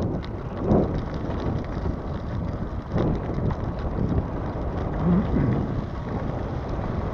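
Wind buffeting the microphone of a camera on a moving bicycle, a steady low rumble with a few short louder gusts.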